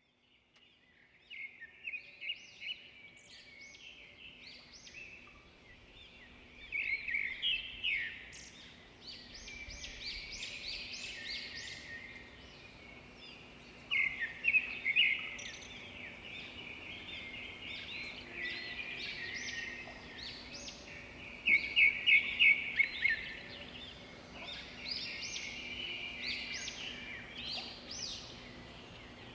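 Small birds chirping and chattering in repeated runs of quick, high notes, several overlapping, with a faint steady hum underneath.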